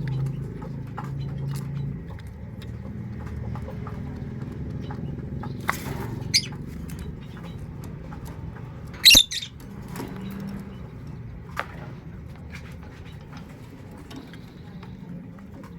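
A pet puter dove moving about, with scattered light taps and scratches and one brief loud rustle, like a wing flutter, about nine seconds in.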